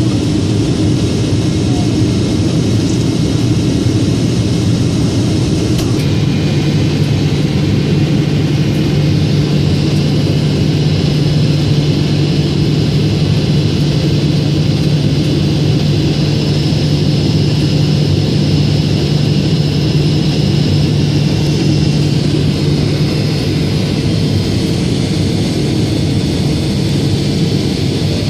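Steady cabin noise inside a Boeing 777-200ER on final approach: jet engines and rushing airflow make an even, loud rumble. A low steady hum joins it about six seconds in and fades away near the end.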